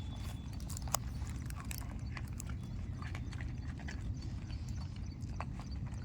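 A dog eating its food, with irregular crunching clicks over a steady low rumble.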